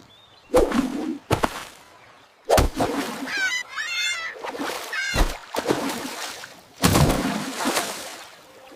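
Cartoon sound effects: a string of sudden hits with a duck quacking, its wavering calls about three to four seconds in.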